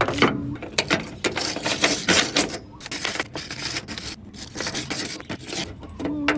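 Irregular run of sharp clicks, clacks and light knocks, like small hard parts being handled and set down.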